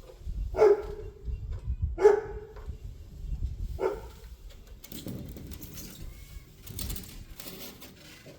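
A dog barking three short times, the middle bark the loudest, followed by softer rustling.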